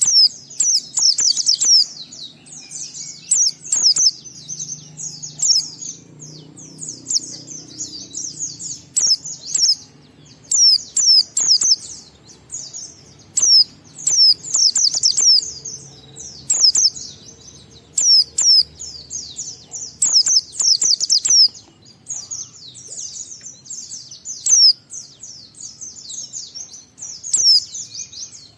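White-eye (pleci) singing a rapid, high-pitched twittering song in runs of a second or two with short pauses, the long chattering 'ngalas' song used as a lure to set other white-eyes singing.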